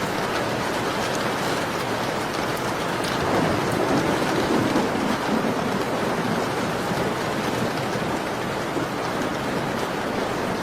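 Steady rain falling, with faint ticks of drops on top. Three or four seconds in it swells briefly louder and deeper.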